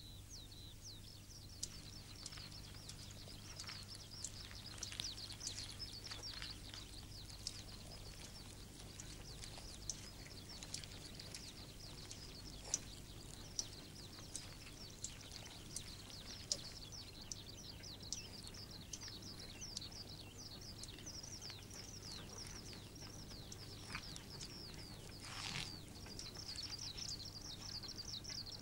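Small birds chirping continuously in quick, high, falling notes over a low steady hum, with scattered faint clicks and a brief rustle near the end.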